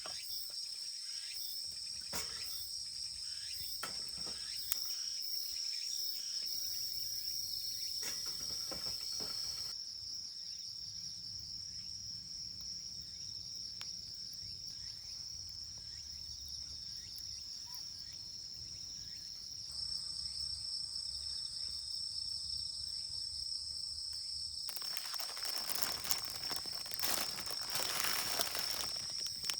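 Crickets chirping in a steady, continuous high chorus, with scattered clicks and a louder stretch of hiss near the end.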